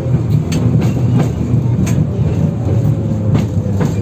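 Inside a 71-608KM tram car: a steady low rumble with about eight irregular sharp clanks and knocks from the running gear.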